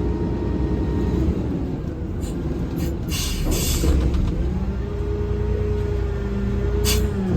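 Garbage truck's diesel engine running, heard from the cab, with a short burst of air hiss about three seconds in and a steady whine from about five to seven seconds.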